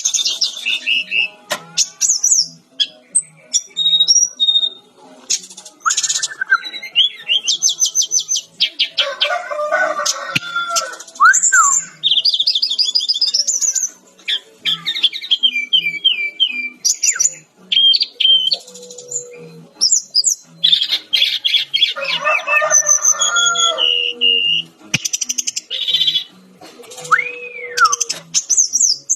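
Sikatan-rimba dada-coklat (a Cyornis jungle flycatcher) singing a loud, rapid, varied song of chirps, trills and gliding whistles, with only brief pauses.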